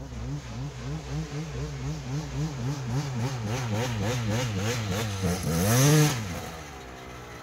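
Dirt bike engine with the throttle blipped on and off, its pitch rising and falling about twice a second. About six seconds in comes one longer, louder rev that then drops back.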